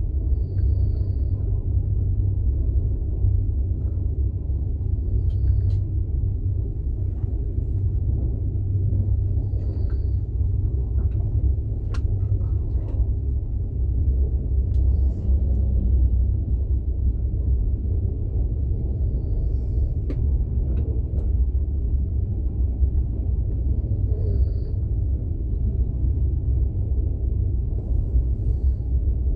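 Inside a Russian platzkart sleeper carriage on the move: the steady low rumble of the train running on the rails, with scattered faint clicks and rattles.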